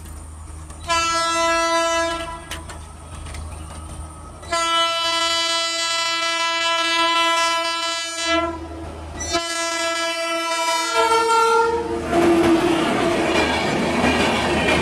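Electric locomotive's horn sounding three long blasts as the express approaches the level crossing, the last dropping in pitch as the locomotive passes. Then the loud, steady noise of the passenger coaches' wheels running past at speed.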